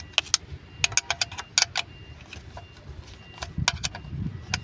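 Irregular metallic clicks and clinks of hand tools and engine parts as a new ignition coil is fitted, in quick clusters early and again near the end.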